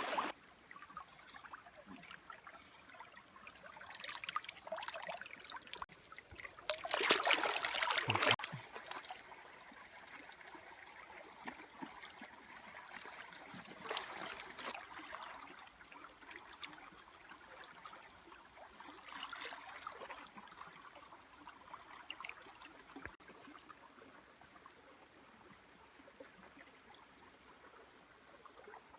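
Water trickling, with louder surges of splashing or rushing water now and then, the loudest about seven to eight seconds in.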